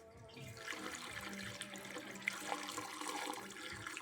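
Gasoline pouring steadily into the small fuel tank of a 1972 Honda Mini Trail Z50.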